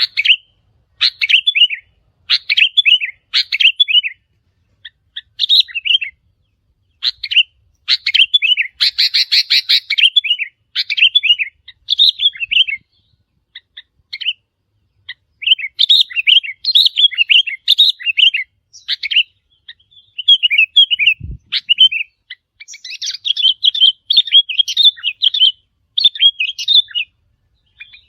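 Sooty-headed bulbul song: short, bubbly chirped phrases repeated over and over with brief gaps between them. One low thump comes about three quarters of the way through.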